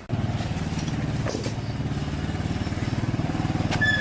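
An engine running with an even low firing rhythm, starting suddenly and holding steady. A short high tone sounds near the end.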